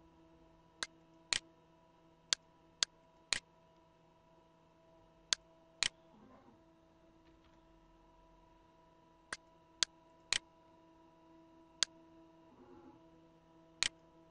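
Computer mouse clicks: about a dozen sharp clicks at irregular intervals, some in quick pairs, over a faint steady hum.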